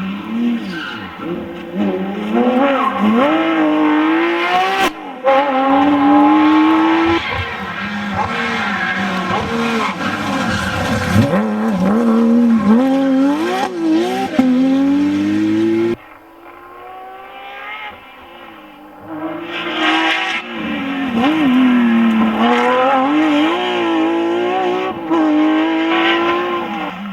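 Porsche 911 GT3 RS flat-six engine at full load, revs climbing and falling again and again through gear changes. The sound drops off suddenly about two-thirds of the way through, then the engine builds back up and rises and falls again.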